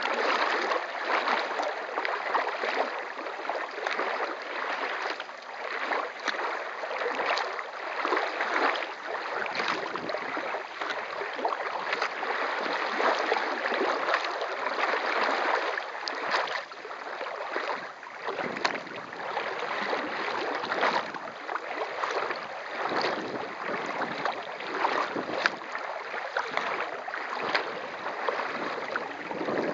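Kayak being paddled across a lake: a steady rush and splash of water along the hull, with repeated short splashes from the paddle.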